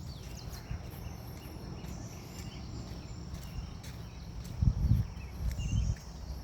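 Forest insects chirping in a steady high trill, with scattered short bird chirps. A few low thuds from footsteps on the path come in the second half.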